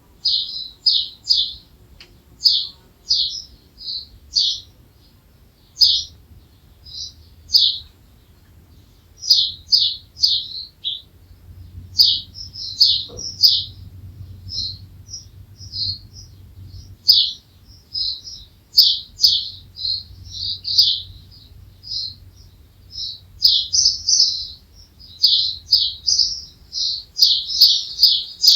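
A songbird chirping in quick runs of short, high notes, with brief pauses between runs.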